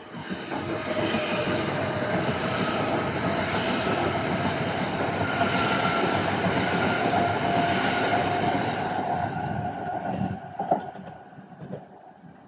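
Electric train moving along the platform: steady running noise with a motor whine, fading away after about ten seconds, with one sharp knock near the end.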